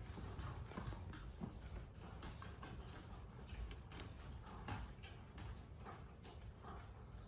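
Cats and kittens stirring at close range: soft, irregular clicks and light rustling.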